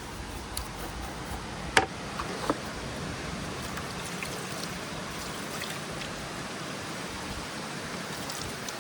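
Water spraying steadily to rinse detergent off a model steam engine, a continuous hiss with two sharp clicks about two seconds in.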